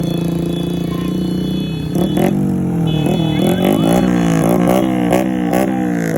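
Honda Win 100 motorcycle's single-cylinder engine being revved. It is held at steady revs for about two seconds, then after a short dip it is blipped over and over, the revs jumping up and dropping back about twice a second.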